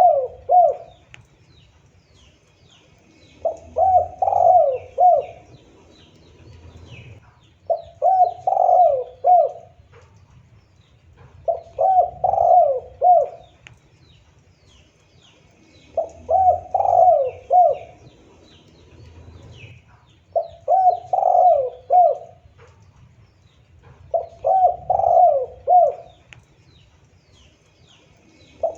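Spotted dove cooing: a phrase of four or five coos, repeated about every four seconds, seven times. Faint chirps of small birds sit in the background.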